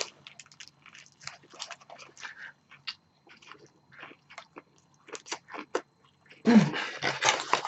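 Crunching bites and chewing of a crispy fried chicken sandwich close to the microphone: many short, crisp crunches. A louder stretch of noise comes near the end.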